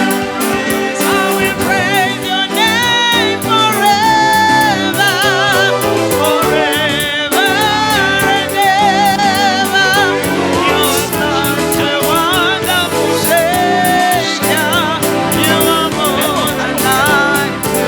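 Gospel praise singing with band backing: voices singing a worship song with strong vibrato over sustained keyboard-like chords and a light beat.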